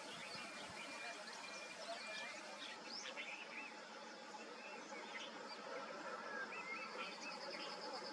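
Several wild birds chirping and whistling in short scattered calls over a steady faint outdoor hiss, with a rapid trill near the end.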